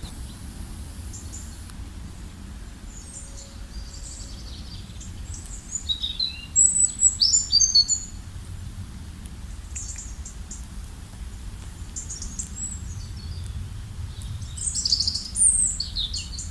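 Small songbirds chirping and trilling in quick high notes, busiest about six to eight seconds in and again near the end, over a steady low rumble.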